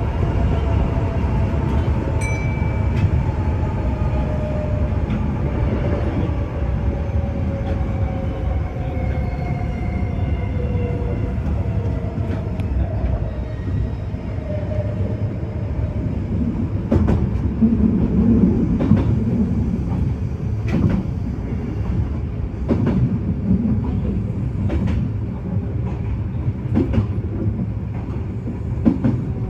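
Kintetsu 6020 series electric train running, heard from the cab: a steady rumble with a motor whine that falls slowly in pitch as the train slows. In the second half, wheels knock sharply over rail joints and points.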